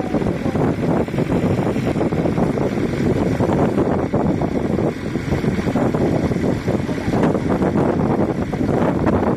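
Heavy diesel engine running loudly and steadily, with a rough, rapid texture, and wind buffeting the microphone.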